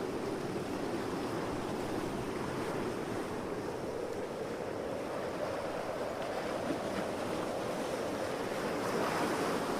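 A steady rushing noise that swells slightly near the end.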